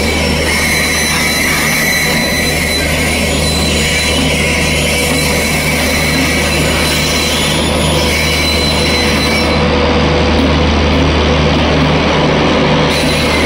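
WAP-7 electric locomotive hauling an express train past close by: a steady, loud rumble of wheels running on the rails, with a constant low hum and a thin, high steady tone.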